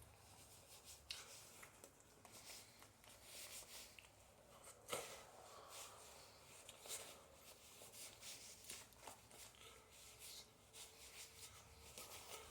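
Near silence with faint scattered clicks and rubbing, handling noise, with one sharper knock about five seconds in.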